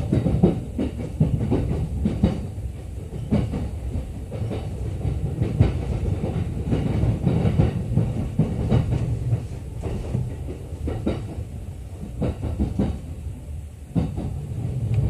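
Running noise heard inside the lower deck of a JR East E231-series bilevel Green car: a steady low rumble with irregular clacks of the wheels over the rails.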